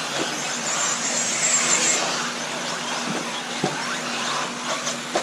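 Electric RC buggies racing on a dirt track: motors whining up and down with the throttle over the hiss of tyres on dirt, with one sharp knock about three and a half seconds in.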